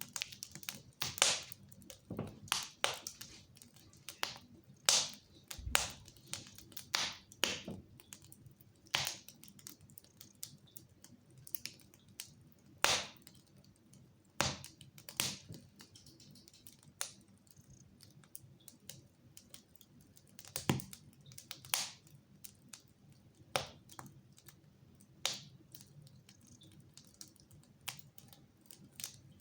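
Wood fire crackling in a fireplace: irregular sharp snaps and pops, some much louder than others, over a faint low background hiss.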